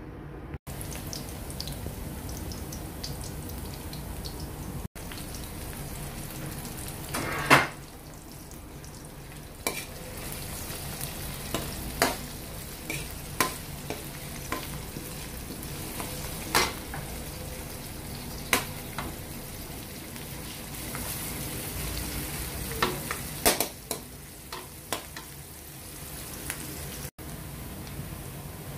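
Chopped garlic and onion sizzling in hot oil in a steel wok, a steady frying hiss. A metal spatula now and then scrapes and knocks against the pan in sharp clicks as the aromatics are stirred.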